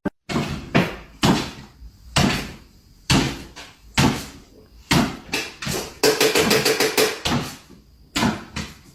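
A series of loud knocks or bangs, roughly one a second, with a quicker rattling run of knocks about six to seven and a half seconds in.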